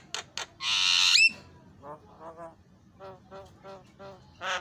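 Javan myna singing: a loud, harsh screech about a second long that ends in a short rising whistle, followed by a run of short clipped notes and a final brief harsh call near the end.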